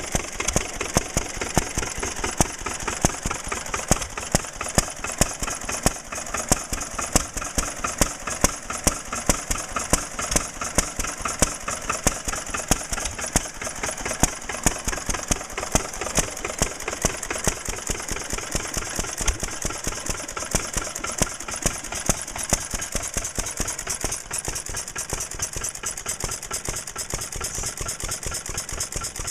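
Antique stationary flywheel engine running: a fast, steady mechanical clatter with a sharper, louder firing beat about once a second, at uneven spacing.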